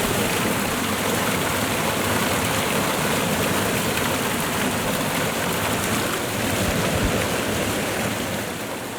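Steady rushing of running water, like a stream or waterfall: an even wash of water noise that eases slightly near the end.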